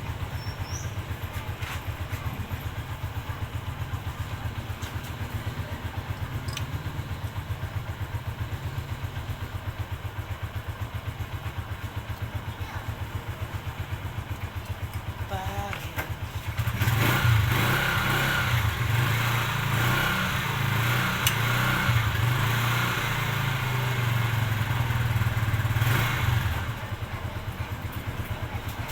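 Kawasaki Barako motorcycle engine, after a top and side overhaul, idling steadily. About seventeen seconds in it runs faster and louder for roughly ten seconds, then settles back to idle near the end.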